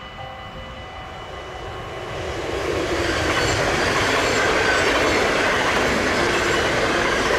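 Train passing on the rails, swelling in loudness over the first three seconds and then holding steady, with a faint steady high whine over the rolling noise.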